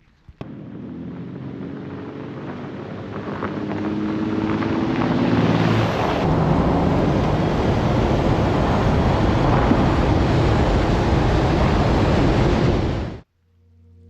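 A motor vehicle's engine pulling away and gathering speed, its pitch rising over the first few seconds, under a loud rush of wind on the microphone. It cuts off abruptly about a second before the end.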